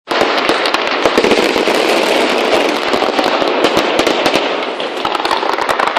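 Fireworks display going off in a dense barrage: rapid cracks and pops over a continuous crackling hiss, easing slightly near the end.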